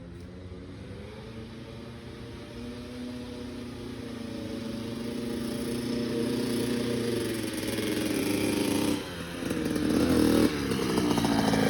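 Dirt bike engine approaching and revving, growing steadily louder; the engine note drops briefly about nine seconds in, then climbs again loud and close.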